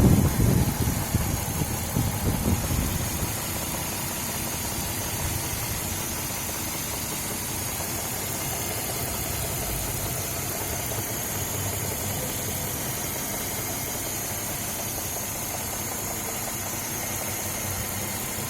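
Suzuki H27A 2.7-litre V6 idling. It runs louder and rougher for the first three seconds, then settles to a steady idle. A knock in the engine, which replacing the timing chain did not cure, is the fault being shown.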